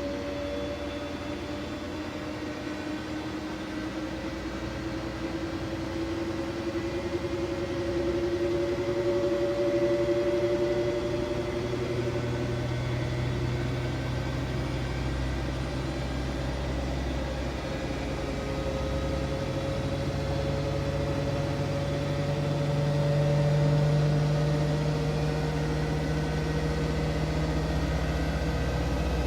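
Siemens Siwamat iQ 716 washing machine running, its motor whine slowly rising in pitch as the drum picks up speed, twice, over a low hum that grows stronger in the second half.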